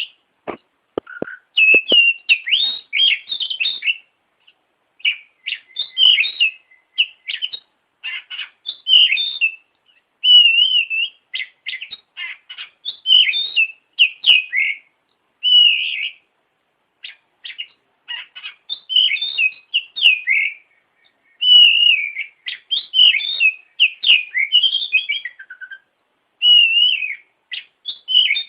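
Oriental magpie-robin (kacer) singing a dense, varied song of whistles and chirps in bursts a second or few long, broken by short pauses. A few low clicks come about a second in.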